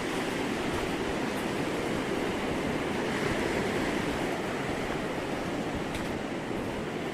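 Sea surf washing onto a beach, a steady rush of waves.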